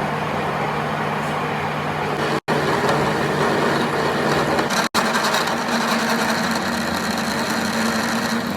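Steady running noise of a motor-driven metalworking machine with a low hum. It breaks off for an instant twice, and after the second break the hum is higher in pitch.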